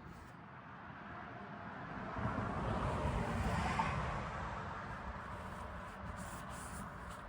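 A vehicle passing by: a broad rushing sound that swells to its loudest about three to four seconds in, then fades away.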